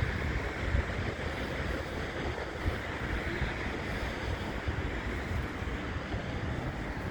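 Steady traffic noise on a busy city street, with wind buffeting the phone's microphone in uneven low rumbles.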